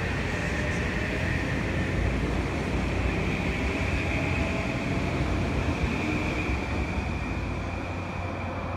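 Metro-North M8 electric multiple-unit train rolling along the platform and pulling away, a steady rumble of wheels on rail with a high electric whine that rises slightly in pitch as it picks up speed.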